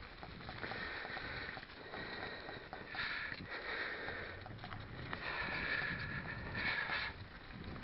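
A cyclist breathing hard while riding, a series of breathy inhales and exhales, the strongest in the second half. Under it runs a steady rumble of bike tyres on the trail and wind on the microphone.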